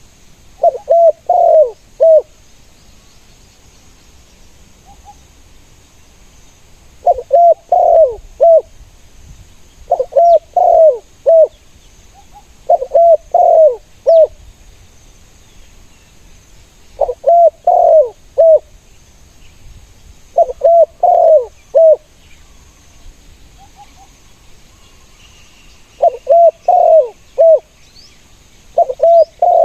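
Spotted doves cooing: eight phrases of four or five low hooting notes each, coming every few seconds with irregular gaps.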